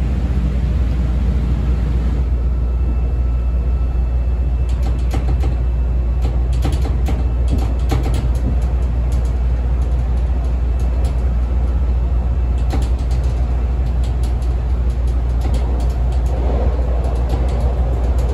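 Inside a moving CTA 5000-series rapid transit car: a steady low rumble of wheels and running gear, with a faint high whine for a while. Clusters of sharp clicks and clatter from the wheels on the track come twice, about five seconds in and again around thirteen seconds in.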